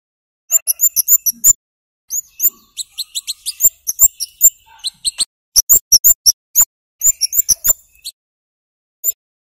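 Scarlet-headed flowerpecker (kemade, cabai jawa) giving sharp, very high 'cit' chirps in quick runs of several notes, broken by short pauses, with one lone chirp near the end.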